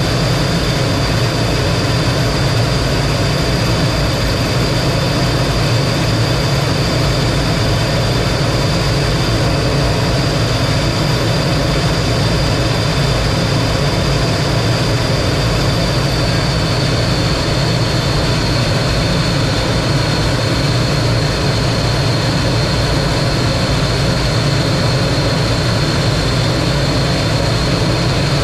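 T-33 jet's Allison J33 turbojet running steadily: a continuous rumble with a high whine, and the whine dips slightly in pitch about halfway through.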